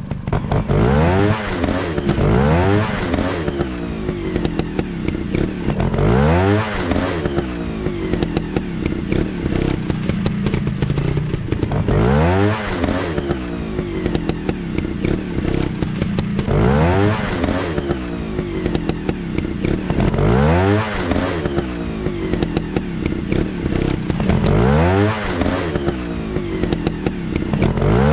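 Motocross dirt-bike engines revving up again and again over a steady engine drone, each throttle opening a rising whine, about every two to five seconds.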